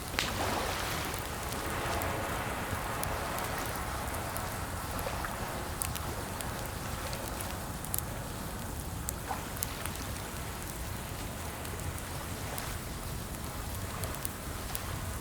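Steady rain ambience, an even hiss, with a few sharp isolated clicks scattered through it.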